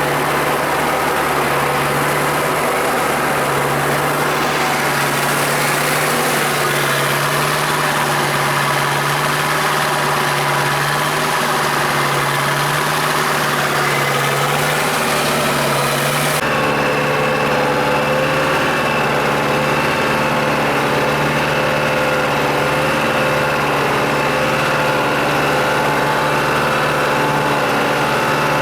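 Tractor engine running steadily. About sixteen seconds in, a hiss in the high range cuts off and the engine's tone shifts slightly.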